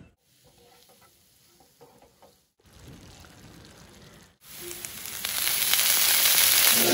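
Food frying in hot oil in a pan: a steady sizzle that begins about halfway through after a sudden cut and grows louder. Before it come only faint, quiet sounds broken by abrupt cuts.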